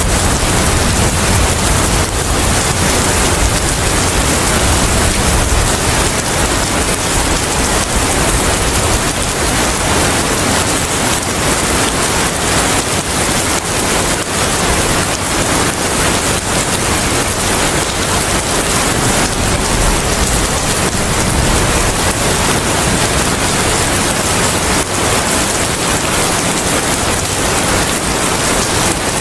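Steady heavy rain, with a low rumble that is strongest near the start.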